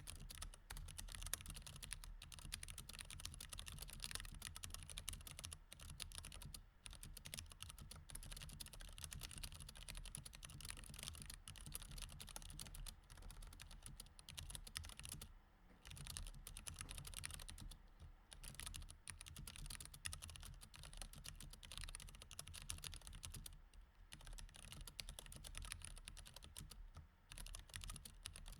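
Continuous typing on a mechanical keyboard with Cherry MX Red linear switches: a quick, dense run of key presses, broken by short pauses about halfway through and again near the end.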